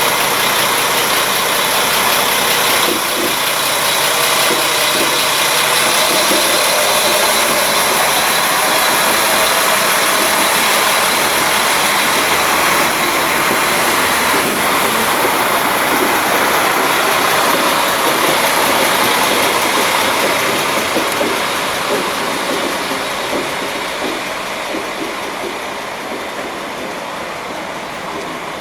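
A train running at a station platform: a loud, steady mechanical noise with a faint hum in it, which slowly grows fainter over the last third.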